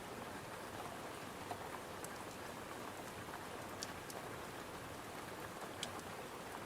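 Steady rain against a window, an even hiss, with a few sharp crackles from a wood fire in a fireplace about two, four and six seconds in.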